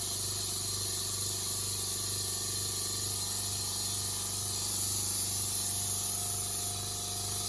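Compressed air hissing steadily into a tractor tyre as it is inflated to reseat its bead on the rim, over a steady low hum. The hiss swells louder for about two seconds past the middle, as the bead seals.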